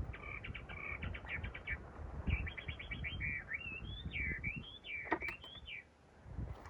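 A songbird singing: quick runs of chirps, then warbling whistles that glide up and down, with low thuds underneath.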